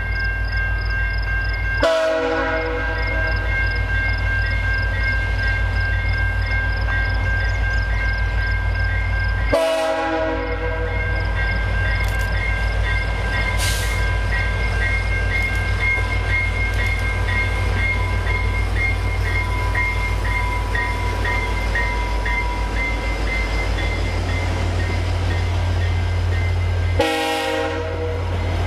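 A train rolling past at track level: a steady, loud low rumble with thin, steady high tones and an evenly repeating high ringing above it.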